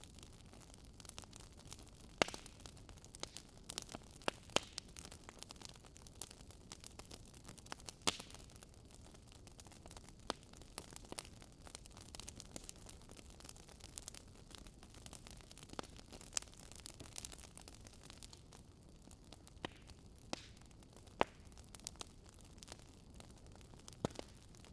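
Wood campfire burning with irregular crackling and sharp pops over a faint steady hiss, a few pops standing out louder than the rest.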